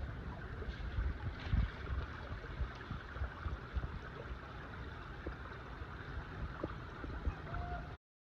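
Wind buffeting the camera microphone in low, uneven gusts over a steady outdoor rushing hiss. The sound cuts off abruptly to silence near the end.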